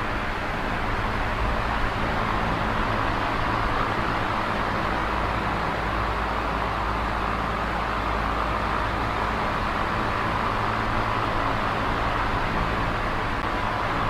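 Small electric fan running steadily: a constant rush of moving air over a low motor hum.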